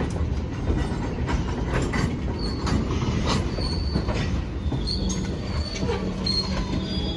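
Freight train rolling slowly during switching: a low rumble with scattered clanks and knocks from the cars, and short high-pitched wheel squeals starting a few seconds in. A steady low drone joins about five seconds in.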